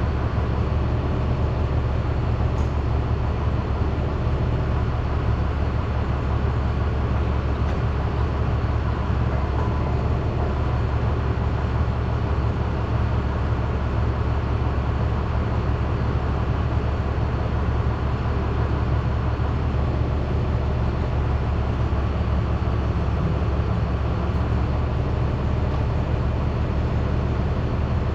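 Steady, unchanging low hum of running machinery, with a haze of noise above it.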